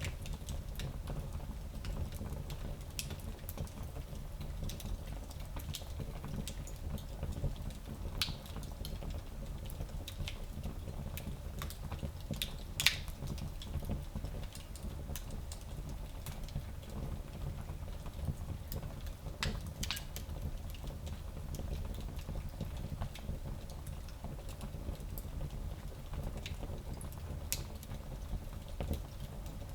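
Fire burning in a small fireplace: a steady low rumble with scattered crackles and pops, the loudest pop about 13 seconds in and another sharp one around 20 seconds.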